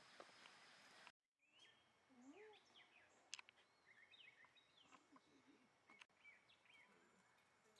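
Faint birdsong: several birds chirping and whistling in short rising and falling phrases over a quiet outdoor hush. The sound drops out briefly about a second in.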